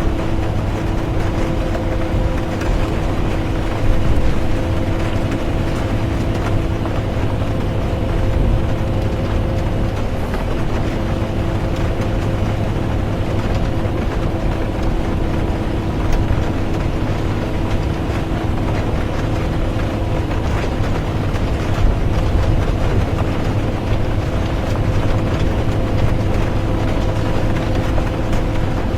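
Bus interior on the move: a steady engine drone and low road rumble, with the hiss of rain over it.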